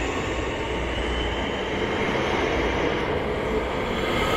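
Southeastern Class 465 electric multiple unit pulling out alongside the platform: wheels rumbling on the rails and the traction motors whining, the whine rising in pitch late on as the train gathers speed.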